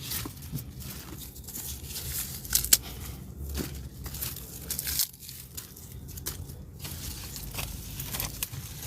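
Fresh comfrey leaves being torn off their stalks and crumpled by hand: irregular rustling and crackling, with a sharper rip a little under three seconds in.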